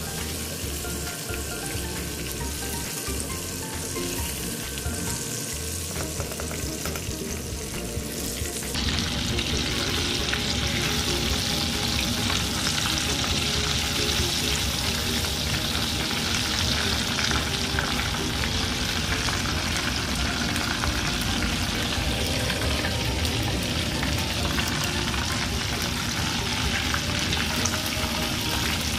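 Breaded chicken pieces deep-frying in hot oil in a stainless pan: a steady sizzling hiss that turns louder and brighter about nine seconds in.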